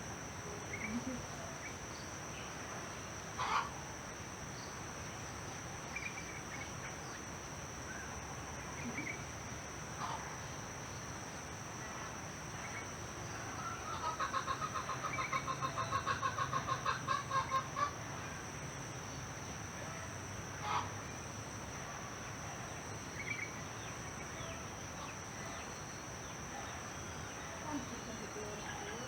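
Village ambience: chickens clucking now and then, with scattered bird calls over a steady high insect drone. Just past the middle, a rapid run of pulsed calls lasts about four seconds.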